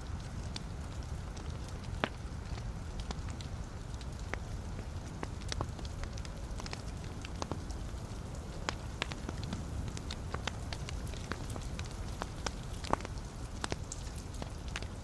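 Wood fire burning in a fireplace: a steady low rumble of flames with irregular sharp crackles and pops from the logs. A louder pop comes about two seconds in and another near the end.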